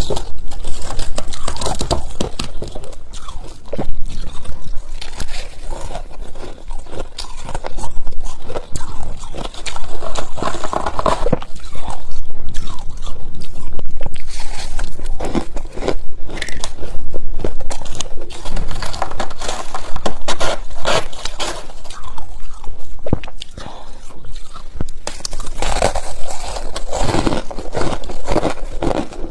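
Close-up biting and chewing of freezer frost, with dense, irregular crunches and squeaks.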